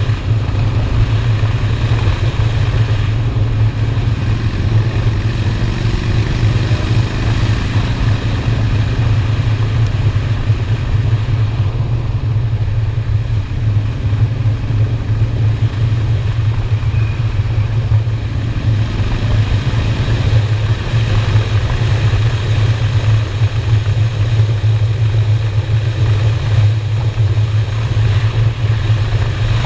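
Honda Shadow V-twin cruiser motorcycle running steadily on the road, a heavy low rumble with a constant hiss over it. Its pitch shifts faintly twice.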